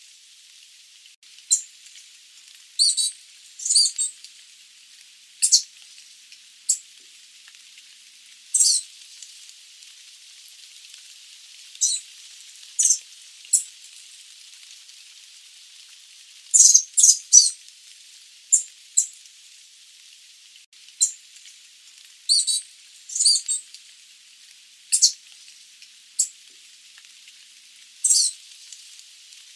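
Sooty babbler (Stachyris herberti) giving short, sharp, high-pitched chirps at irregular intervals, sometimes in quick runs of two to four, over a steady background hiss.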